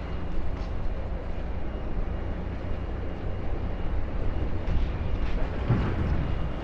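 Diesel engine of a demolition excavator running steadily, with a brief knock about six seconds in.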